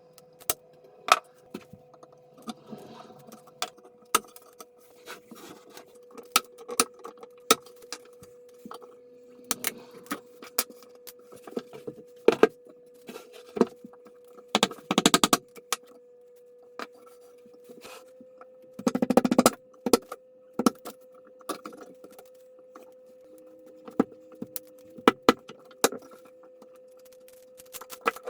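Sharp, irregular clicks and knocks of wooden pieces being handled and set against each other, over a faint steady hum. Twice, about halfway through, there is a short rapid rattle.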